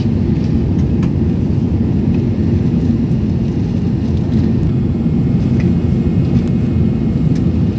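Airbus A380 jet engines running under takeoff power: a steady low rumble, with a few faint light clicks or rattles.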